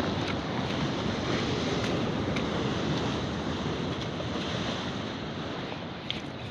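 Steady wash of sea surf with wind on the microphone.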